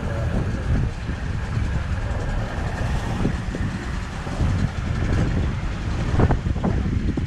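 Strong gusty wind buffeting the microphone in a steady low rumble, with a couple of harder gusts near the end.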